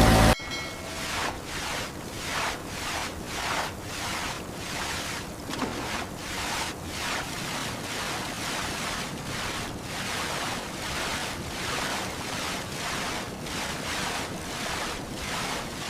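Water washing in waves with wind noise, an even rushing that swells in regular surges about twice a second.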